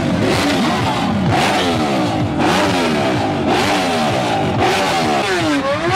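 Several superbike engines revving and accelerating at once, their pitch climbing and falling back about once a second as the lines overlap, with one engine dipping and rising again near the end.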